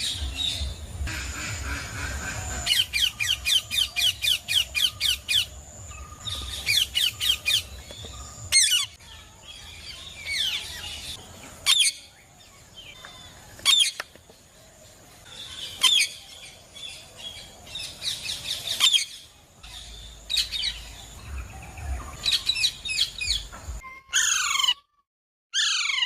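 Parrot chirping and squawking: quick runs of repeated chirps, several single sharp calls, and a few falling whistles near the end.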